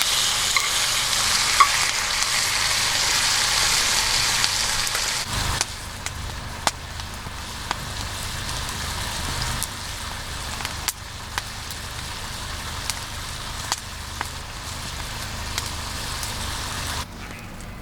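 Food frying in hot oil: a loud, dense sizzle for about five seconds, then a quieter sizzle with scattered sharp pops and crackles, dropping lower again near the end.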